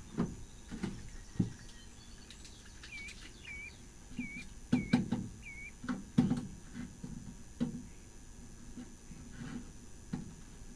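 A small bird chirping a short hooked call about five times in the middle stretch, over scattered light knocks and taps.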